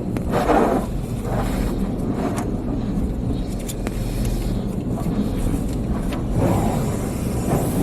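Car engine idling, heard from inside the cabin, with a couple of brief muffled swells of noise from outside.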